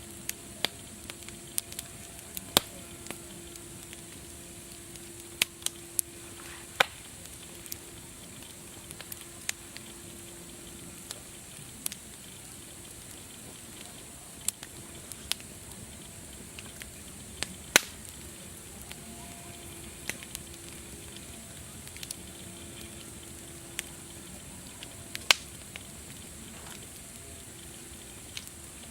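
Wood fire crackling: a steady hiss broken by irregular sharp pops and snaps.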